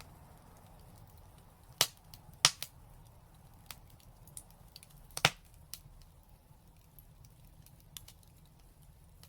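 Wood fire crackling, with a handful of sharp pops: a loud one about two seconds in, two close together shortly after, and another a little past five seconds, with smaller ticks in between over a faint low background rumble.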